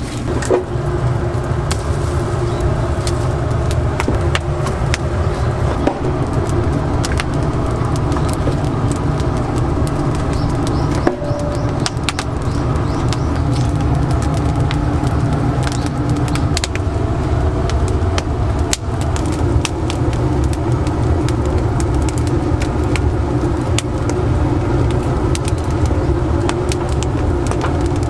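Wood-fired rotisserie chicken oven running: a steady low mechanical hum with frequent scattered crackles and clicks from the burning firewood.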